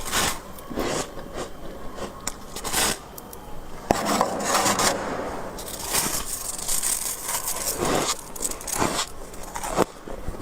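Freezer frost being scraped off the freezer walls in a series of rasping strokes. Some strokes are short; several are drawn out over a second or more.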